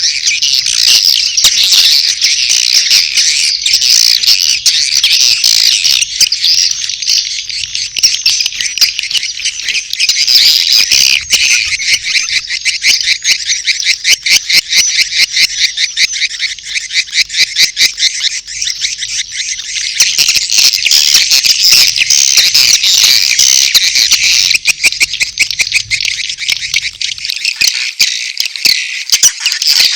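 Edible-nest swiftlet lure-call recording: a dense, continuous chorus of high twittering chirps, mixing swiftlet mating calls and chick calls. Near the middle the chirps run together into a fast, rhythmic clicking series.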